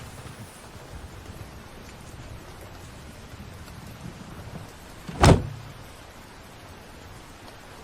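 Steady heavy rain falling, with a single loud thump about five seconds in.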